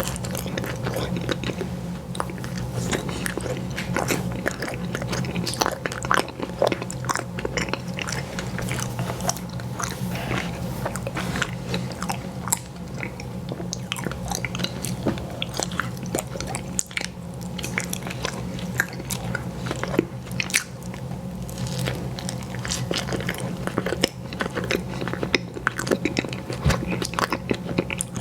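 Close-miked eating of ice cream sandwiches: biting and chewing, with many small sharp crunching clicks all the way through. A steady low hum runs underneath.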